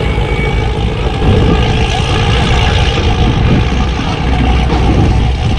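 A car running hard at speed: a loud, steady engine sound with a rushing noise and a strong low rumble, cutting in abruptly.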